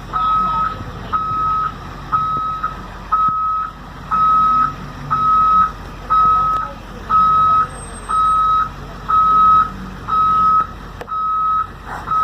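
School bus reverse alarm beeping steadily, one high beep about every second, with the bus's engine running underneath as it backs up.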